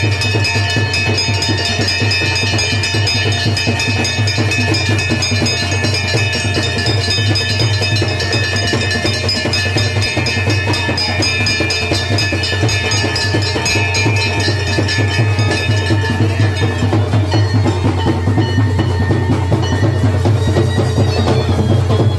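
Loud percussion music: fast, continuous drumming with long held high notes over it.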